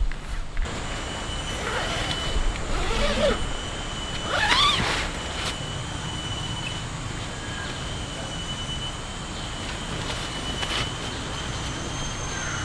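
Shallow river flowing with a steady rush, under a thin, steady high insect drone. A few short calls slide up and down in pitch about two to three seconds in and again around four and a half seconds.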